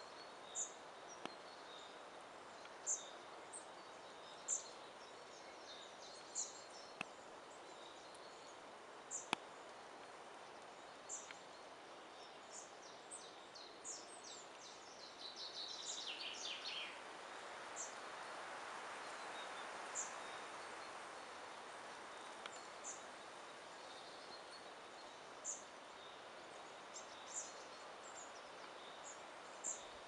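Small birds calling in a pine forest: short, high chirps every second or two, and a quick trill falling in pitch about halfway through, over a faint hiss that swells for a few seconds just after the trill.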